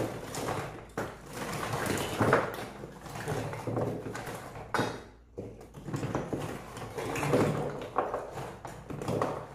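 Unopened oyster shells clattering and scraping as they are tipped out of a plastic basin onto a table and pushed about by hand, with many irregular knocks of shell on shell.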